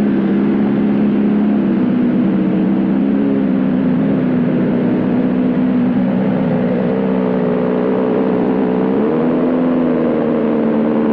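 BMW S1000RR's inline-four engine running at steady revs while riding, over a constant rush of noise. The pitch dips slightly about two seconds in and rises a little about nine seconds in.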